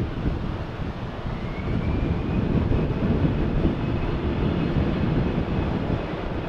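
Jet airliner's engines passing with a loud, steady rumble that builds slightly, and a faint high whine rising a little a couple of seconds in.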